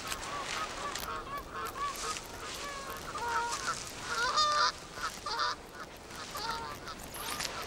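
Birds calling: many short calls in quick succession, loudest a little past the middle.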